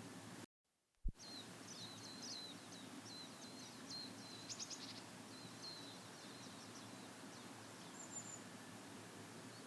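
A small songbird singing faintly: a quick twittering run of short high chirps lasting several seconds, then a couple of thin, very high notes near the end, over a steady low background hiss. About a second in, the sound drops out briefly and returns with a sharp click.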